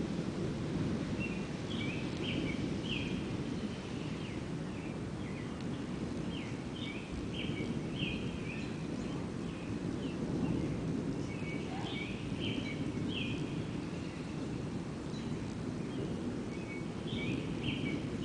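A songbird singing short phrases of quick chirped notes, a new phrase every few seconds, over a steady low rumble of distant thunder.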